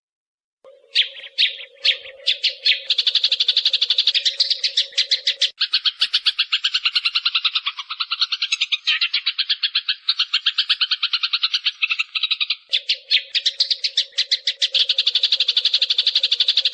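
Sparrows chattering, from a decoy recording played to lure birds: a few separate chirps about a second in, then a fast, unbroken stream of short chirps, with a low steady hum underneath for part of the time.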